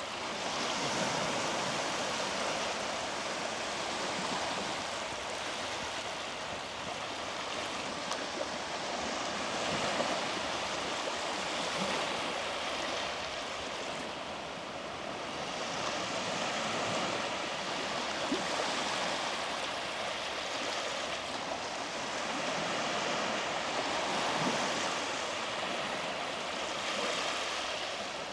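Small sea waves breaking and washing up a beach: a steady hiss of surf that swells and falls back every several seconds.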